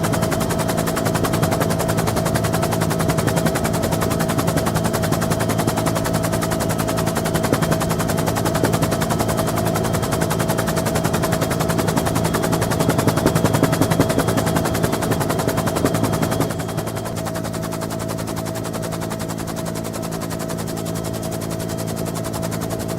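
Bell UH-1N Twin Huey helicopter heard from on board: the rapid chop of its two-bladed main rotor over the steady whine of its twin turboshaft engines. About two thirds of the way through the chop eases and the sound drops a little quieter.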